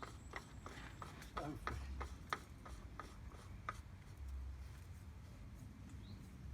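Irregular rubbing and light scraping clicks as a new oil filter is spun onto its threaded mount on a Kubota B20 tractor engine by hand, with a short falling creak about one and a half seconds in. A faint low hum runs underneath.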